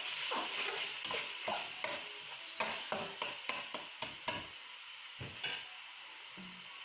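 Onion-tomato masala frying in oil in a pan, stirred with quick, repeated scraping strokes over a steady sizzle. The stirring stops about five seconds in, leaving a quieter sizzle.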